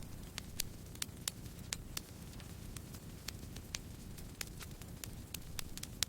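Campfire crackling: frequent, irregular sharp pops and snaps of burning wood over a steady low rush of the flames.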